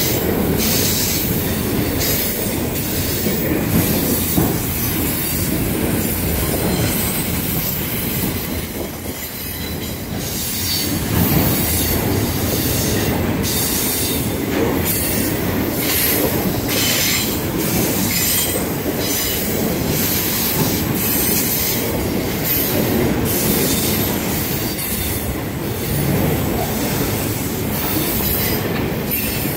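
Autorack freight cars rolling past at close range: a steady, loud rumble of steel wheels on the rails, with irregular clicks and clatter over it.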